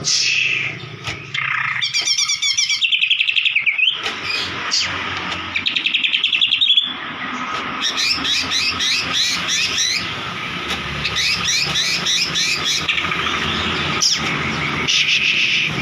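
White-rumped shama (murai batu) singing persistently in fast, repeated chattering phrases and trills, broken by short gaps. A steady low hum runs underneath.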